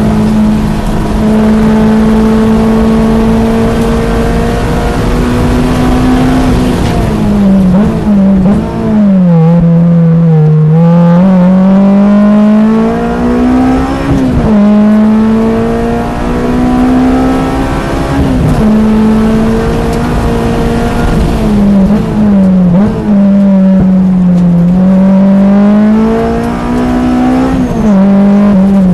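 Honda S2000's stock F22C four-cylinder engine at race pace on track, held at high revs. Its pitch climbs and falls, breaking off suddenly every few seconds as the car is shifted and braked for corners.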